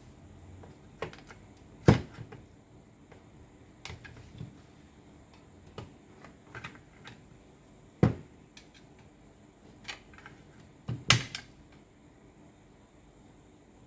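Scattered clicks and knocks of tools and parts being handled on a workbench, with three louder knocks about two, eight and eleven seconds in.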